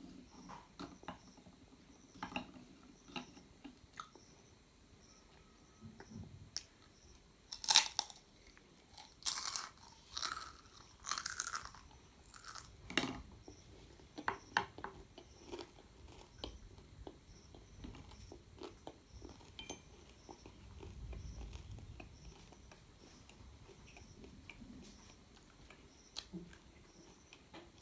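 Close-up eating sounds of a child chewing stir-fried noodles, with scattered small clicks and a run of louder, noisy mouth sounds from about eight to thirteen seconds in.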